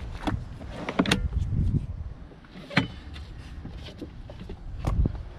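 Clicks and knocks of windshield suction cups and tape being handled. A sharp click comes about three seconds in, and a heavier thump near the end.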